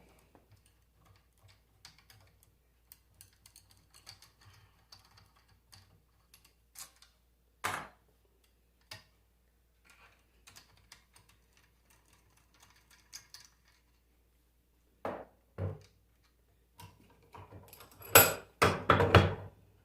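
Light clicks and taps of metal alternator parts being handled during disassembly, with a few separate louder knocks and a burst of metal clatter near the end.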